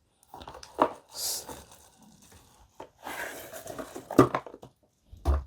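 Small plastic packaging and parts being handled: rustling with a few sharp clicks and knocks.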